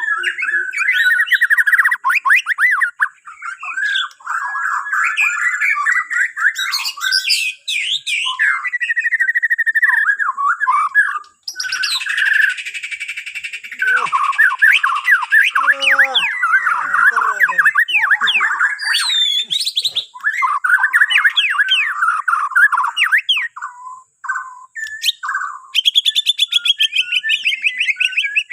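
Bornean shama (murai batu) singing: a long, varied run of rapid trills, clear whistles and harsh chattering phrases, with a buzzy, scratchy stretch around the middle and a couple of brief pauses.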